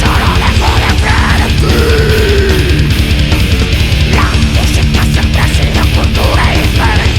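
Thrash-death metal band playing: heavily distorted guitars and bass over fast, driving drums. About two seconds in, a note slides down in pitch.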